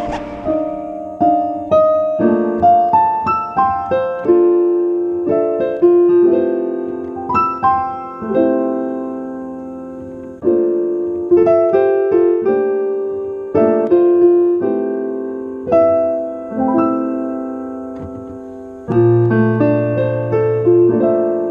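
Background piano music: a melody of single struck notes over held chords, each note fading after it is struck, with a deeper bass note coming in near the end.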